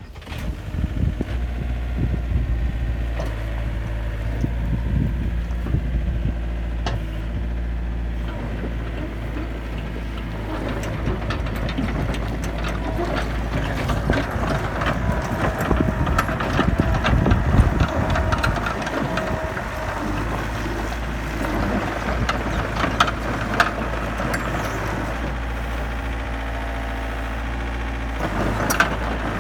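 Komatsu PC50UU-2 mini excavator's diesel engine running, with scattered knocks and clanks. In the middle the sound gets louder and busier, then settles back to a steady run.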